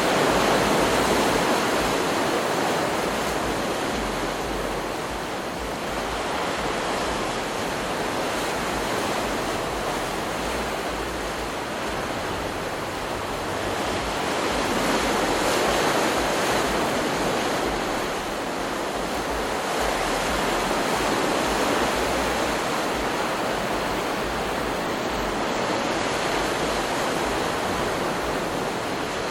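Stock recording of ocean surf: a continuous wash of breaking waves that swells and eases every several seconds.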